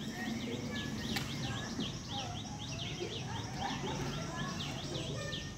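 A bird chirping in a fast, steady run of short, high chirps, each falling in pitch, several a second, over faint outdoor background noise.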